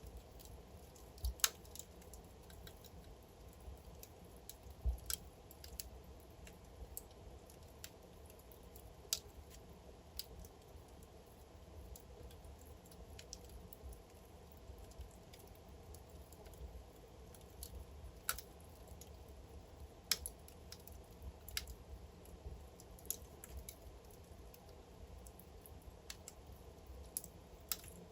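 Wood fire crackling in a fireplace: irregular sharp pops and snaps from the burning logs, a few louder ones standing out, over a low steady rumble.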